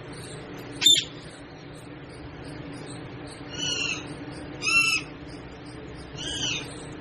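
Pet parrot calling: one short, sharp squawk about a second in, the loudest, then three longer arching calls about a second apart in the second half.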